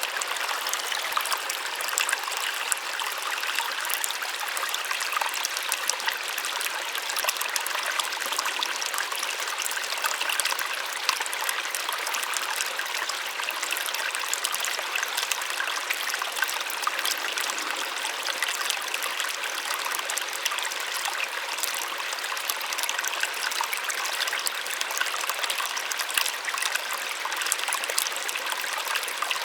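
Small waterfall splashing steadily, a continuous gentle rush of falling water with fine crackling splashes and little low rumble.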